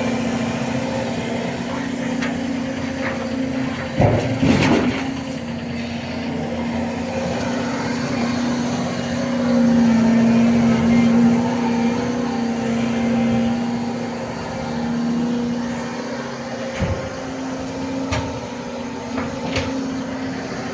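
Volvo EC250ENL tracked excavator's diesel engine running steadily, growing louder for a few seconds in the middle. A short burst of knocks about four seconds in, and a few single sharp clicks near the end.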